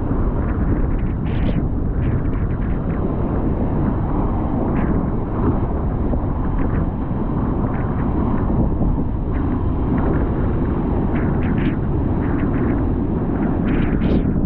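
Strong gale-force wind buffeting the microphone over a rough sea, with waves breaking and splashing in many short bursts.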